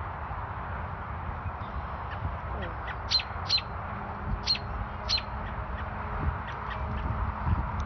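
A bird giving short, sharp calls, four loud ones close together about three to five seconds in and a few fainter ones around them, over a steady low rumble.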